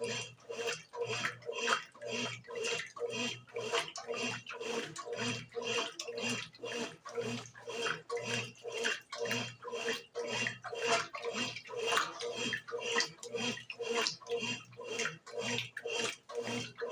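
Brastemp BWG11 washing machine in its wash cycle: water sloshing around the linens in an even rhythm of about two surges a second, over a steady motor hum.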